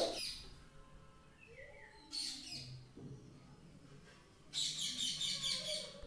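Birds chirping in the background: a short burst of calls about two seconds in, then a longer run of rapid high chirps near the end.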